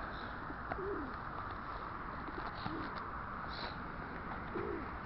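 Birds calling: a few short, low calls about two seconds apart and a couple of brief higher chirps, over a steady background hiss.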